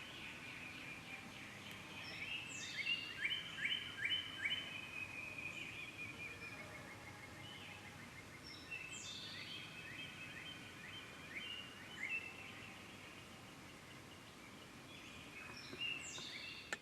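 Several wild birds singing and calling in spring woods, with trills and repeated notes; the loudest is a quick run of falling notes about three to four seconds in.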